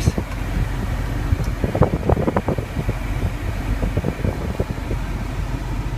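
Steady low hum of a car's ventilation fan running inside the cabin, with a short run of small clicks and knocks about two seconds in.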